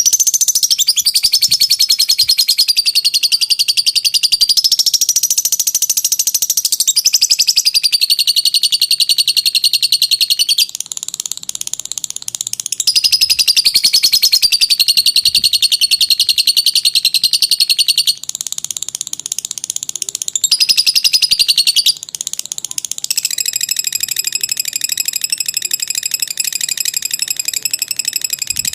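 Lovebird giving its long 'ngekek' chatter: rapid, high, rattling trills that waver in pitch, each phrase running several seconds, with short breaks about a third and two-thirds of the way through.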